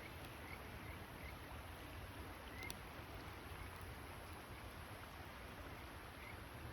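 Faint, steady night-time outdoor noise with a low rumble, a handful of short, high chirps, and one sharp crack about two and a half seconds in.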